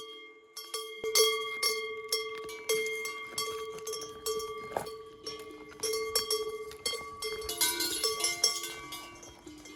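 Several cowbells clanking irregularly as cattle move and graze, each strike ringing on at its own pitch.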